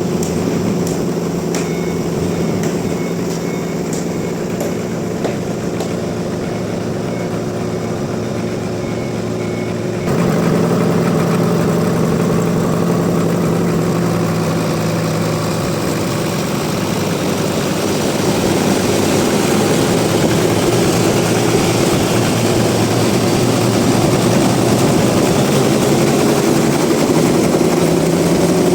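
Sawmill machinery running steadily, a motor holding an even pitch. About ten seconds in the sound changes abruptly and gets louder, then keeps going steadily.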